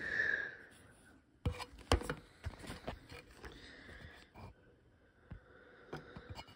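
Scattered light clicks and knocks with faint scraping from hands working on a small engine.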